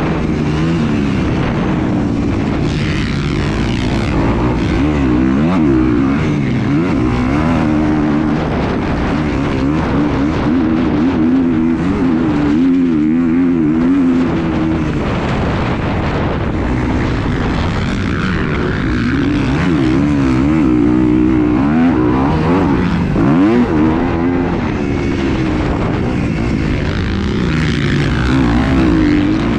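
Engine noise running steadily, its pitch weaving up and down.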